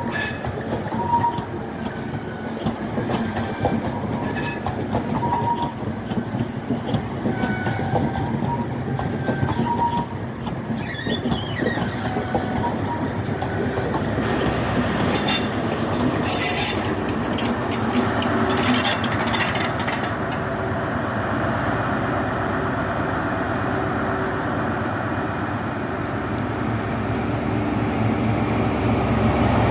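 A High Speed Train with Class 43 power cars running on the rails: a continuous rumble with short high squeals early on, a spell of rapid clatter about halfway through, then a steady noise that grows louder near the end.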